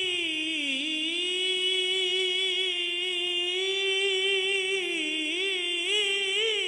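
A singer holding one long note of a Punjabi Sufi devotional song. The pitch dips early on and wavers in ornaments in the second half.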